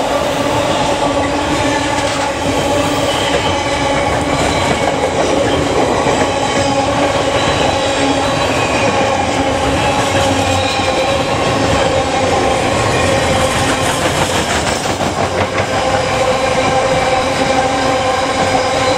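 Freight train running past, its wagons rolling on the rails in a loud, steady clatter with a steady whine held over it.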